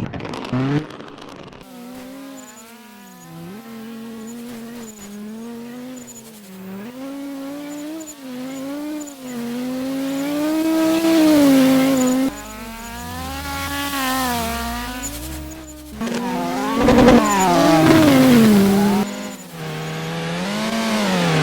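Rallycross race cars on track, their engines revving up and falling back again and again through gear changes and corners. About three-quarters of the way in a car goes by louder, its pitch sweeping as it passes.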